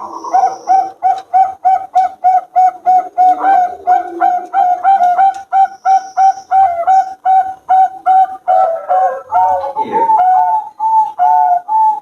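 Bangkok-bred zebra doves (perkutut) singing: a fast, even run of short ringing coos, about three a second. Near the end a second voice at a slightly lower pitch overlaps the first.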